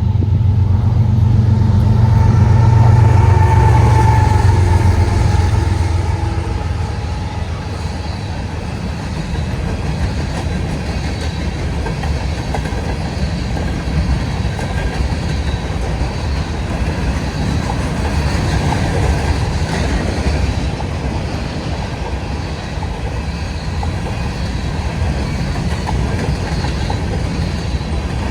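Two CSX diesel locomotives passing, their engines' low drone loudest for about the first six seconds, then the steady rumble and clickety-clack of empty grain cars rolling by.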